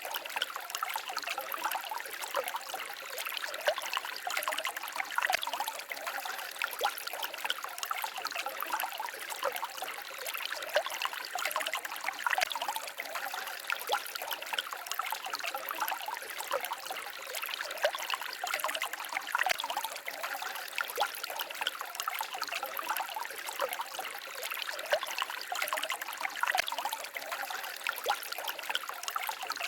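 Small forest stream babbling and trickling over stones, a steady splashy burble with many small droplet splashes.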